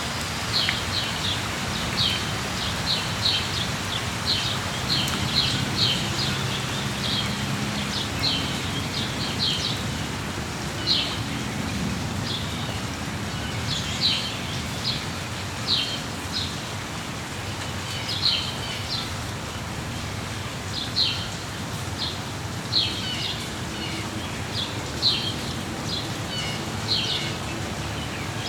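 Steady rain hiss with small birds chirping over it in short, high notes, packed closely for the first several seconds and then coming every second or two.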